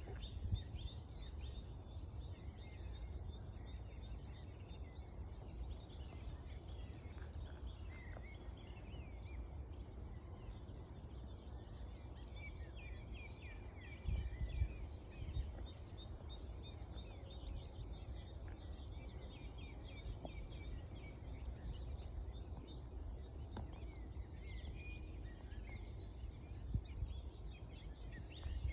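Several songbirds chirping and singing in a dawn chorus over a steady low rumble, with a couple of brief louder low thumps, one about halfway through and one near the end.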